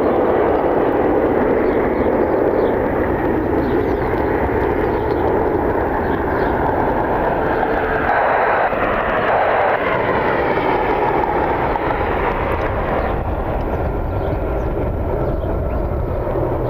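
Jet airliner engines making a continuous roar as the aircraft passes. In the middle, an engine whine glides in pitch, and the roar eases a little near the end.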